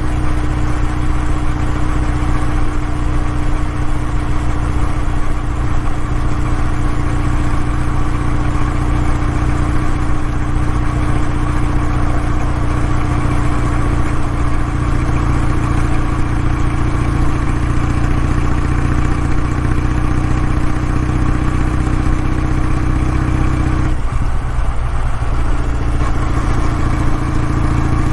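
Kawasaki W650's parallel-twin engine and exhaust running steadily at an even engine speed. Near the end the note dips and changes for about two seconds, then settles back.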